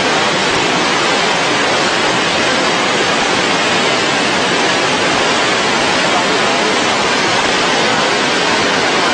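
Floodwater rushing across and washing out a road: a loud, steady torrent.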